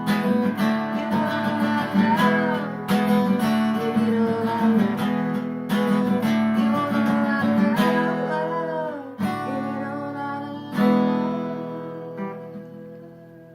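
Acoustic guitar strummed in a steady rhythm. A last chord, struck about eleven seconds in, rings and fades away.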